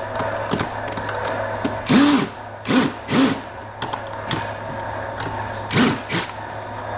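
A cordless drill/driver run in about four short trigger bursts, each spinning up and winding back down, backing screws out of an air conditioner's housing during teardown. A steady low hum runs underneath.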